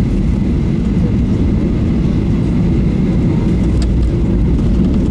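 Steady, loud, low-pitched cabin noise of a Boeing 737-800 on final approach, the engines and airflow heard from inside the passenger cabin.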